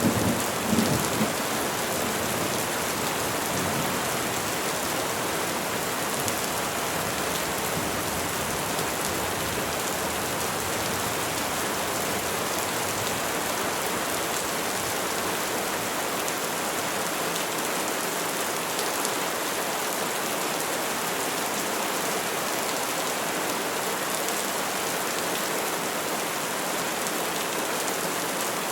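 Steady rain falling, an even hiss of drops without a break. In the first second or so, the fading tail of a low thunder rumble.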